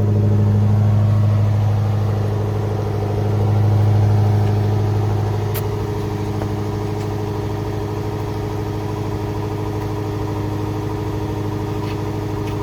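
2019 Maserati Levante GTS's 3.8-litre twin-turbo V8 idling steadily, swelling slightly twice, near the start and about four seconds in, without a real rev.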